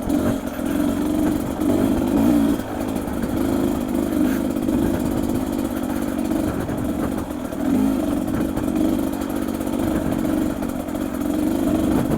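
Beta 250 RR two-stroke dirt bike engine running under a rider on a trail, its revs rising and falling with the throttle, dipping briefly twice.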